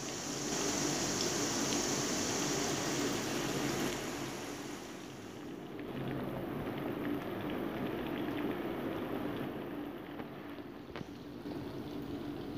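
Onions, tomatoes and garlic sizzling as they fry in oil in a wok, over a steady low hum. A high hiss in the sizzle stops about five seconds in, and there are a couple of light clicks near the end.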